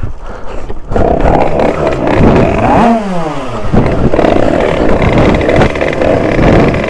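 Derbi two-stroke motorcycle engine fitted with an 80 cc Italkit cylinder, running at high revs under throttle; about three seconds in the revs drop sharply, then pick up again a second later.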